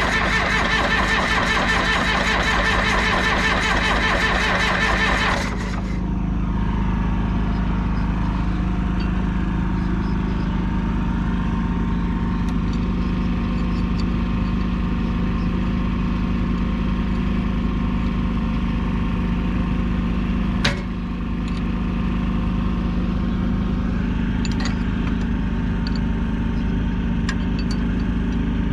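John Deere 450C bulldozer's diesel engine running. A harsh, loud high-pitched layer over the engine cuts off suddenly about five seconds in, leaving a steady idle. A single sharp click about twenty seconds in.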